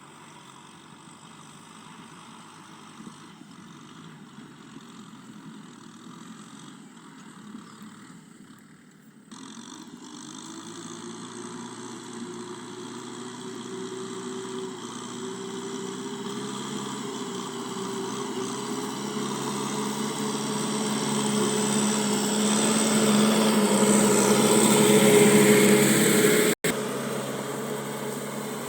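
Tractor engine running, growing steadily louder as it draws near and loudest near the end, with a brief cut-out just before the end; before that, about the first third holds only faint background.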